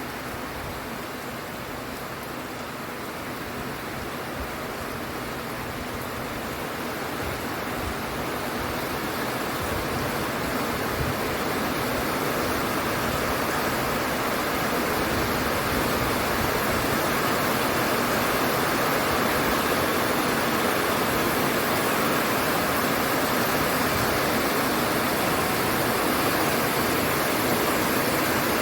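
Steady rain falling, a dense even hiss that swells gradually over the first half and then holds steady.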